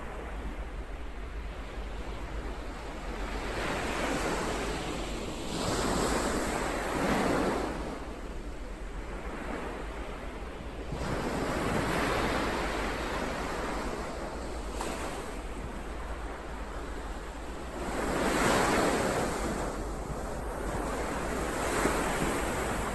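Ocean waves breaking and washing in one after another, each surge of surf swelling and falling away over a few seconds, over a steady low rumble.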